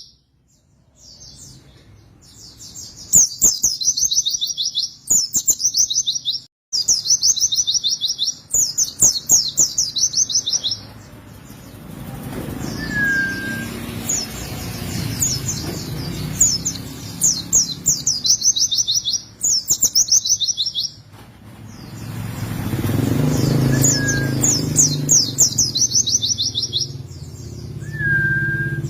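White-eye (pleci) singing long, rapid, high-pitched trilled phrases, one after another with short pauses. A low rumble rises and fades twice underneath, with a few short lower whistled notes.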